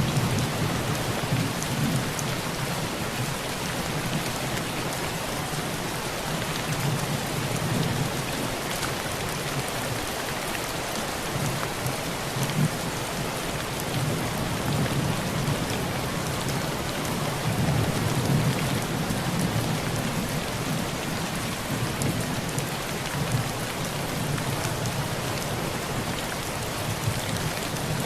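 Heavy rain pouring steadily on a thin tin roof, a dense, even hiss of drops on metal. Low rolls of thunder rumble underneath, swelling and fading several times.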